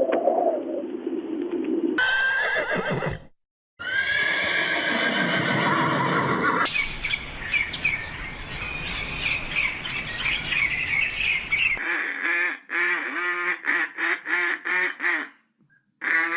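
Farm animals calling in a run of short clips, with a horse whinnying and squawking calls among them. The sound cuts out abruptly twice.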